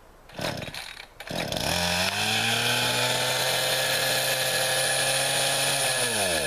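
Two pulls on a two-stroke chainsaw's starter cord, then the engine catches and runs steadily for about four seconds before its pitch falls and it dies. The saw has just been refuelled after running dry and will not keep running.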